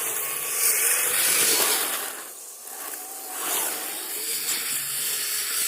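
Kyosho Blizzard RC snowcat running on plastic tracks through snow: a hissing churn of the tracks with a faint motor whine that wavers with the throttle. It eases off briefly about two and a half seconds in, then picks up again.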